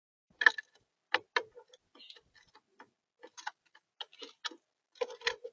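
Irregular sharp taps and clicks at a bird feeder camera, close to the microphone, a few a second, growing louder near the end: a visitor picking at seed on the feeder.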